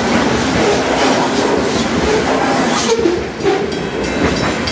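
Loaded rock hopper cars of a Union Pacific freight rolling past, steel wheels clattering and rumbling on the rails. About three seconds in the sound drops and thins as the last car goes by and the train rolls away.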